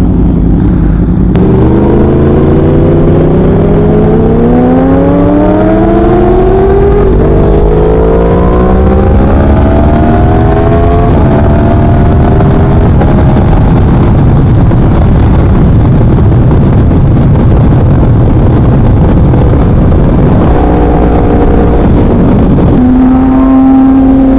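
2017 Yamaha R1's crossplane inline-four through a Leo Vince three-quarter exhaust, ridden: the engine note climbs steadily under acceleration, drops with two gear changes about halfway through, then runs steadily under a loud rush of wind and road noise. Near the end it holds one steady note.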